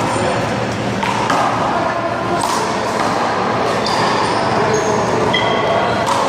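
Sharp cracks of a small rubber handball being struck by hand and hitting the wall, about six of them at uneven intervals, over a steady background murmur.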